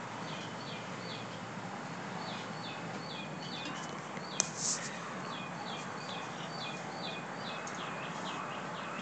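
A bird singing a short falling note over and over, two or three times a second, over steady outdoor background noise. A single sharp click about four and a half seconds in.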